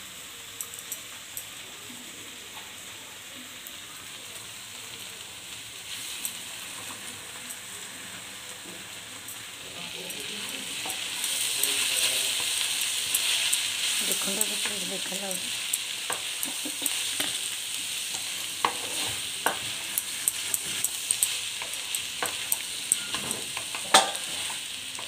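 Shredded cabbage and potatoes sizzling as they fry in a dark pan. The sizzle gets louder about ten seconds in, when the fry is stirred, and from then on the spatula gives repeated clicks and scrapes against the pan, with one sharp knock near the end.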